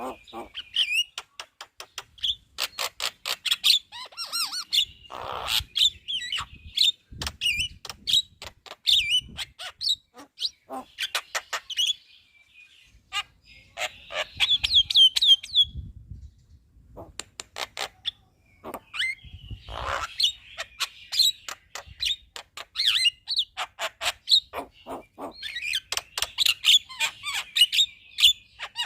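Javan myna (jalak kebo) singing its chattering song: fast runs of clicks and whistled chirps, breaking off briefly twice around the middle.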